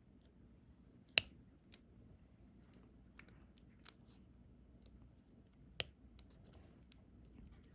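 Diamond painting pen picking up and pressing resin drills onto the sticky canvas: scattered light clicks and taps, with two sharper clicks about a second in and near six seconds.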